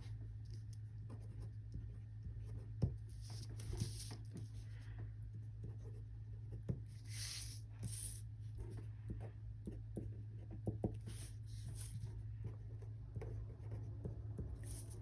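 A pen writing by hand on paper: short bursts of scratchy strokes a few seconds apart, with small taps of the pen on the page, over a steady low hum.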